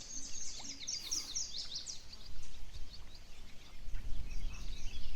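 Small songbirds singing: a fast run of high, quick chirps in the first two seconds, then scattered chirps over a steady outdoor background. A low rumble comes up near the end.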